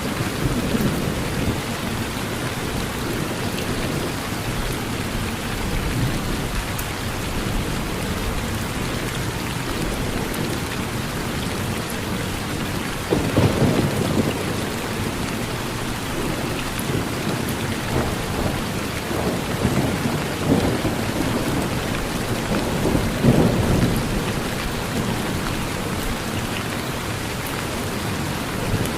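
Steady rain falling on a porch roof, with low thunder rumbling twice, about halfway through and again near the end.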